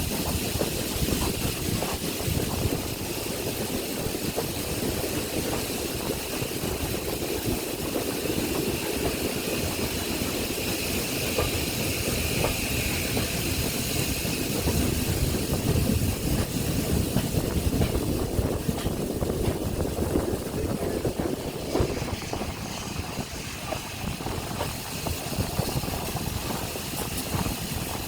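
Steam train at the railway: a steady hiss over a low rumble, the hiss easing off about three-quarters of the way through.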